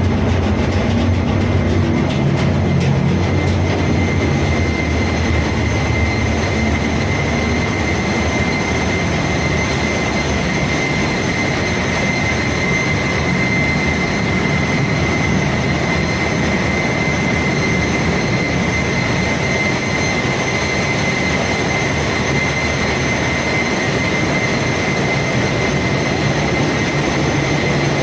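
Engine-room machinery running steadily: a loud, unbroken roar over a low hum, with a constant high-pitched whine.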